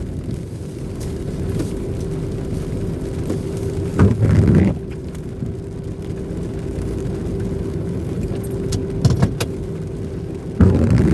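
Car cabin noise while driving slowly: a steady low engine and road rumble with a constant hum, two brief louder low surges, and a few light clicks.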